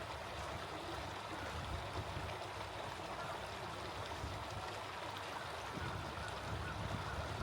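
Small stream flowing with a steady, even rush of running water.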